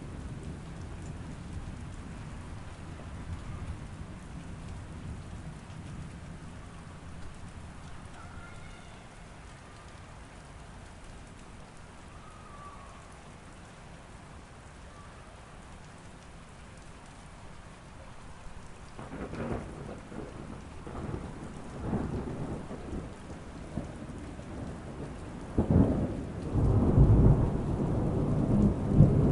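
Steady rain with thunder. A low rumble dies away in the first few seconds, then rolling thunder starts about two-thirds of the way through and builds into a loud peal near the end.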